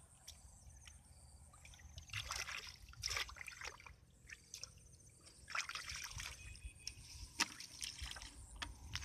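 Water sloshing and trickling in shallow water, with a few irregular splashes and one sharp knock.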